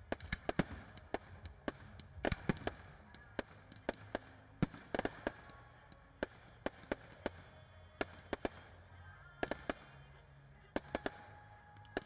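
Fireworks going off: a dense, irregular series of sharp bangs and crackles, some close together, over a low background rumble.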